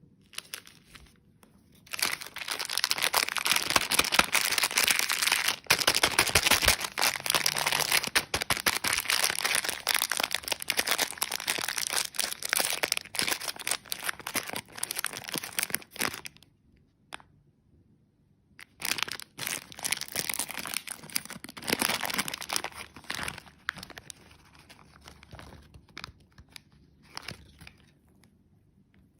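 Plastic candy packaging crinkling and tearing as it is handled and opened, in a long stretch of dense crackling, a pause, then a shorter stretch, with a few scattered crinkles near the end.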